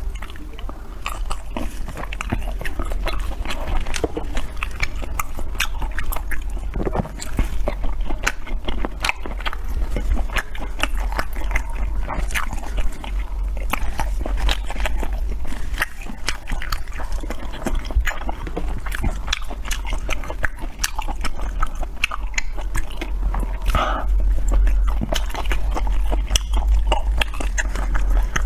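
Close-miked eating: continuous chewing and biting, with dense irregular wet smacks and crunchy clicks, over a steady low hum.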